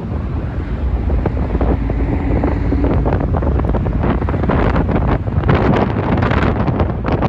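Heavy wind buffeting the microphone over a vehicle's low running rumble, with gustier crackling in the second half.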